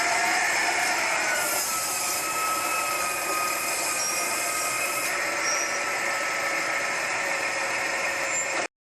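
Garbage truck running steadily, its engine noise carrying a whine that dips slightly in pitch, then cutting off abruptly near the end.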